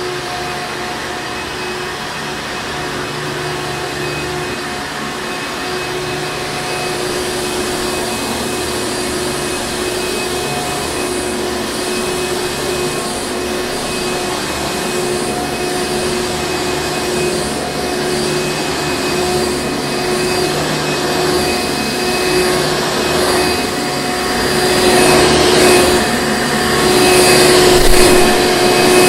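Hoover Encore Supreme vacuum cleaner running, a steady hum with a fixed whine. It grows louder and more uneven in the last five seconds, with quick pulsing swishes.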